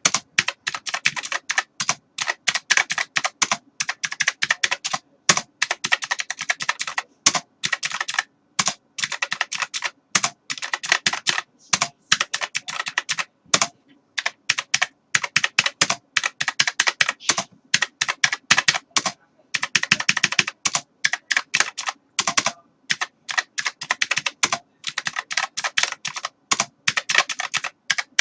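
Typing on a computer keyboard: quick runs of keystroke clicks in bursts of a few seconds, broken by short pauses.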